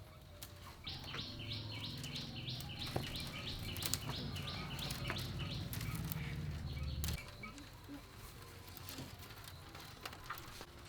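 A small bird calling in a rapid series of short, high, falling notes, about three a second, for a few seconds. Under it a low rumble cuts off suddenly about seven seconds in, with scattered light clicks.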